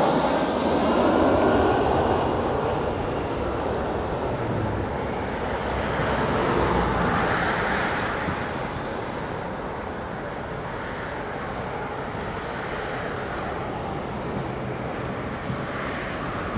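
Jet airliner's engines after it has passed on its landing approach: a steady rumble that slowly fades, swells again about six to eight seconds in, then settles at a lower steady level.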